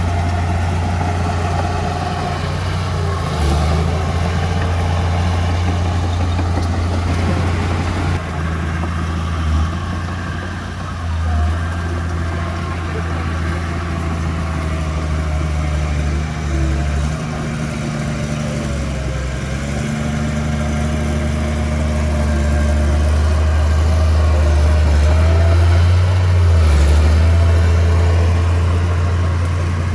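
Heavy earthmoving machinery's diesel engine running steadily with a low hum, growing louder about three-quarters of the way through, then easing off.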